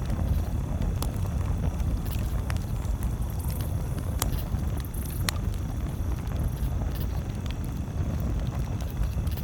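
Campfire crackling, with a few sharp pops, over a steady low rumble.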